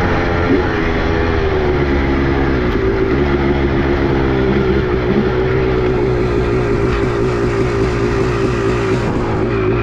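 Two-stroke motorcycle engine running under throttle at a fairly steady pitch that wavers slightly up and down, with a short blip of the throttle about half a second in.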